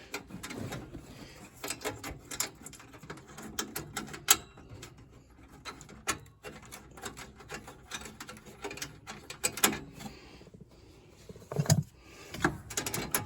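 Irregular light clicks, taps and scraping from hands working metal parts and tools on a gas furnace during a maintenance service.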